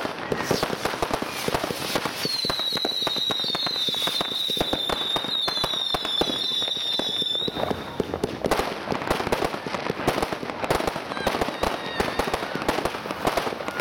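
Class 2 consumer fireworks firing in quick succession: a dense string of launch thumps, bangs and crackling star bursts. A high, slightly wavering whistle starts about two seconds in and cuts off suddenly after about five seconds.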